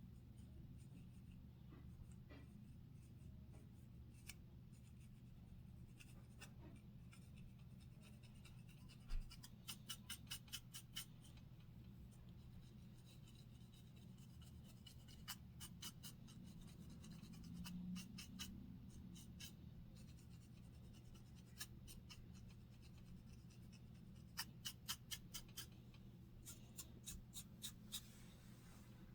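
Quiet, quick scratching strokes on a scalp with dandruff, coming in short runs of several rapid strokes three times, over a steady low hum.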